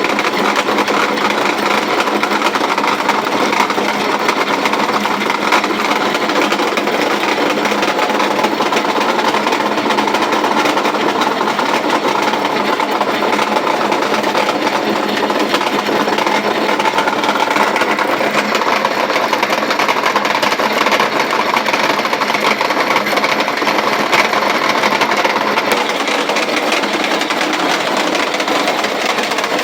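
Antique grain roller mill running steadily, its rollers crushing grain with a dense, even mechanical clatter.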